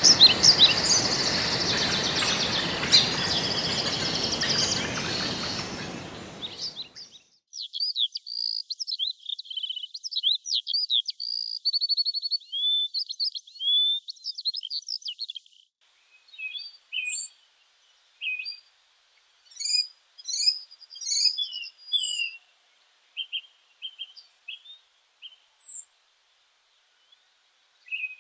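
Several songbirds chirping and warbling over a steady hiss of forest ambience, which fades out about six seconds in. After that the birds sing alone: a run of quick warbled phrases, then short, scattered chirps with silent gaps between them.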